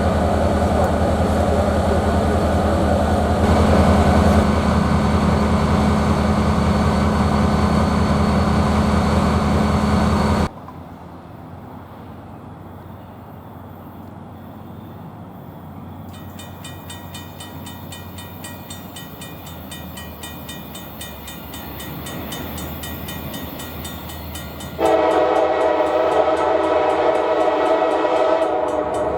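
EMD SD40-2 diesel locomotive's engine running loud and steady, cutting off abruptly about ten seconds in. After a quieter stretch, the locomotive's air horn sounds one long chord near the end.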